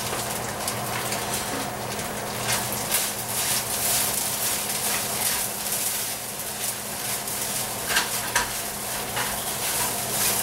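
Rice frying in a little oil in a hot pan, a steady sizzle, with a utensil scraping and clicking against the pan as the rice is stirred, most sharply about eight seconds in.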